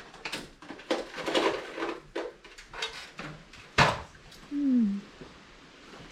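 Hand-work noises of installing ductwork: a run of knocks and scrapes, the loudest a sharp knock about four seconds in, followed by a short falling tone.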